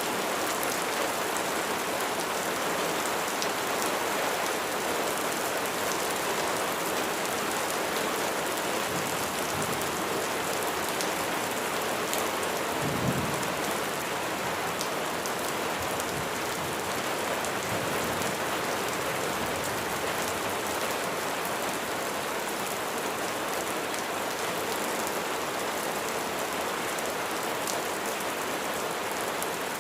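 Steady rain falling, a dense even hiss with fine drop ticks. A brief low rumble of thunder comes about thirteen seconds in, and a fainter one a few seconds later.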